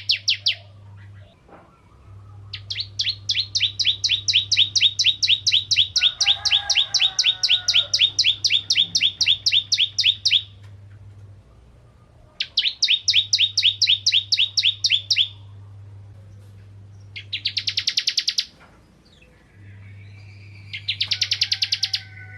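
Ciblek kristal, a prinia, singing in full voice: rapid trains of sharp, high, ticking notes, several a second, in bouts of one to eight seconds with short pauses between, the longest starting about two seconds in. A faint steady low hum runs underneath.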